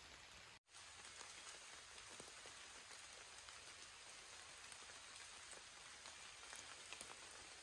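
Faint, light rain falling on forest leaves: a soft, even hiss with scattered drop ticks. It cuts out completely for a moment a little over half a second in.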